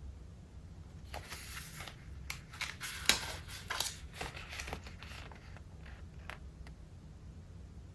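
Pages of a thick collaged traveler's notebook being turned: a soft paper rustle about a second in, then a run of crisp crackles and snaps, the loudest around three seconds in, thinning out to a few light ticks.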